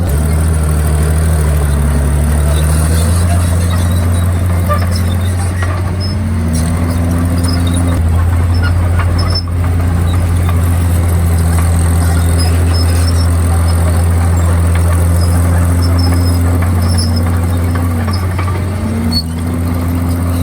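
Komatsu D51PX bulldozer's diesel engine running under load, its pitch dipping and rising several times as the machine works. Faint high squeaks sound over it now and then.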